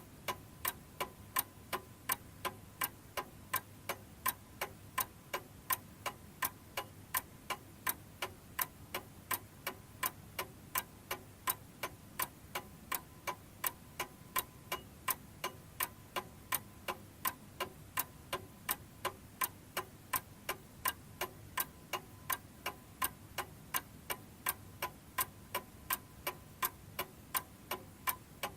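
Domestic chiming clock ticking steadily, about two and a half sharp ticks a second, between chimes.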